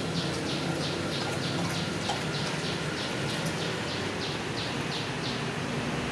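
A bird chirping in a steady series of short, high chirps, about two or three a second, that stop shortly before the end, over a steady low hum.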